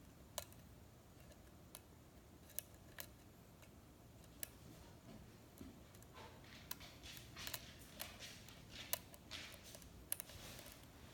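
Lock pick working the pins of a six-pin Schlage-style KIK cylinder under tension: faint metallic clicks, a few scattered at first, then a busier run of clicks and light scraping from about six seconds in.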